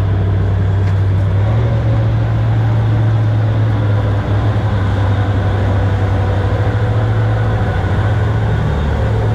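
Boat engine running steadily: a loud, constant low drone.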